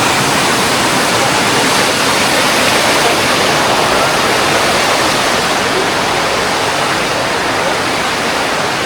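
Loud, steady rush of fast-flowing water from the waterfall-fed stream.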